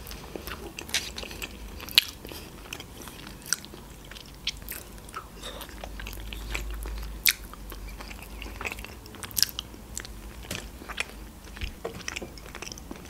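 Close-miked biting and chewing of a sushi roll: irregular wet mouth clicks and soft crunches, a few per second.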